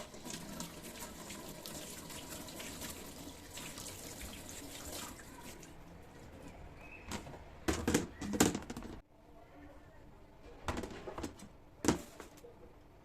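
Kitchen tap running into a sink, a steady hiss for about five seconds. Later come a few loud knocks and clatters as things are handled, twice.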